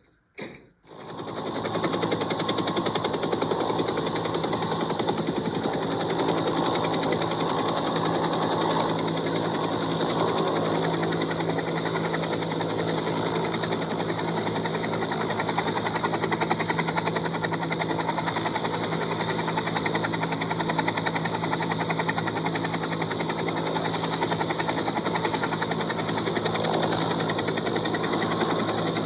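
A brief sharp sound, then a diesel locomotive engine comes up to a steady run about a second in and keeps going evenly, with a fast fine rattle over a constant low hum.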